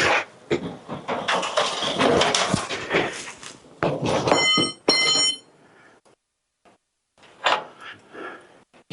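Homemade metal car rotisserie being turned with a Karmann Ghia body mounted on it: a run of clanks, knocks and scraping, with two short high squeaks about four and a half seconds in. After a brief pause come a few more knocks.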